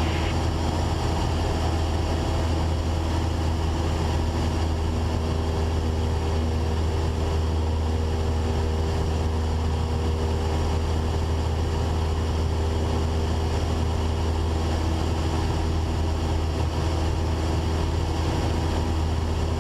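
Cessna 172's four-cylinder piston engine and propeller droning steadily in cruise, heard inside the cabin as an unchanging low hum with a few steady tones above it.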